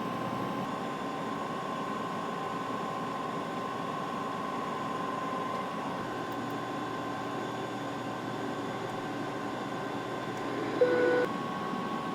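Steady flight-deck noise of an aircraft on approach: airflow and engine hum with a faint continuous tone. Near the end, a single short beep sounds.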